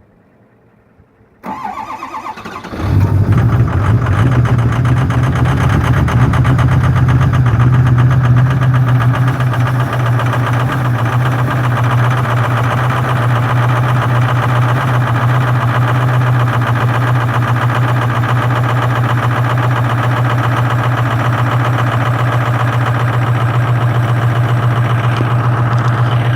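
2005 Ford Super Duty's 6.0 L Power Stroke V8 turbodiesel on a −22 °C cold start, block heater plugged in. It cranks about a second and a half in, catches after about a second, and settles into loud, steady running.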